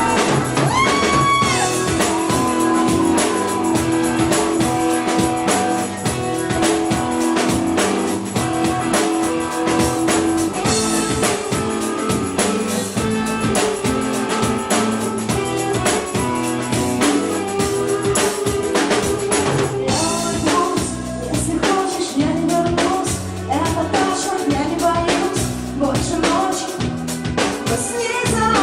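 A rock band playing live: guitar and sustained pitched lines over a drum kit keeping a steady beat, with the drums and cymbals getting busier about two-thirds of the way through.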